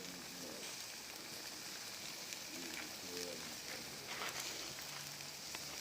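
Campfire burning under the soup pot: a steady hiss with scattered small crackles.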